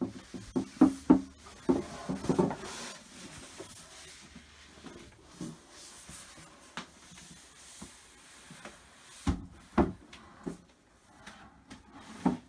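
Wooden flat-pack cupboard carcass being moved and set down: a run of knocks and bumps of the panels in the first couple of seconds, quieter rubbing and scraping, then two heavy thuds about nine and a half seconds in and another just before the end.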